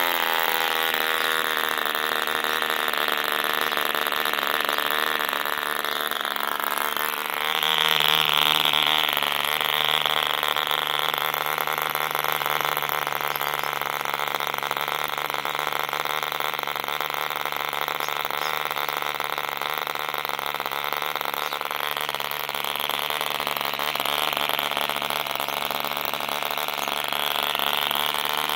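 Movo D2 model diesel engine, a small two-stroke compression-ignition engine, running steadily at high speed and driving a 10x5 propeller. Its note shifts up, a little louder, about seven seconds in.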